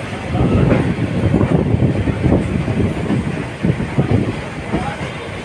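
Train running along the track: a steady rumble of wheels on rails with irregular clattering knocks as the wheels cross rail joints and points.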